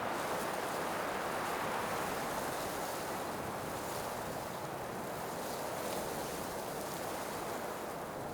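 Blizzard wind blowing hard, a steady rushing noise that eases off slightly over the few seconds.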